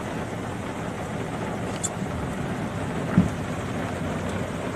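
Heavy tropical rain pouring down steadily as a dense hiss, with one sharp low thump about three seconds in.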